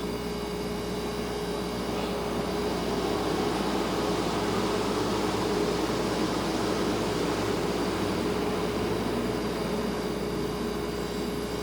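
Refrigerator running: a steady hum with one clear tone over an even hiss, swelling slightly in level a few seconds in.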